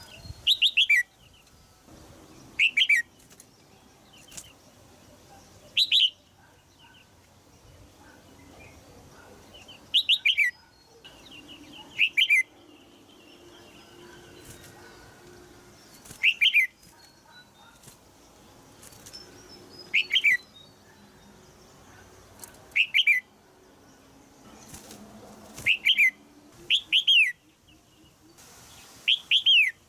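Female red-whiskered bulbul giving short, sharp chirps that fall in pitch, singly or in quick pairs, every few seconds.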